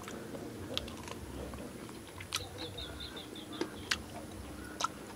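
A man biting into and chewing boiled corn on the cob: quiet chewing with a few short, sharp clicks.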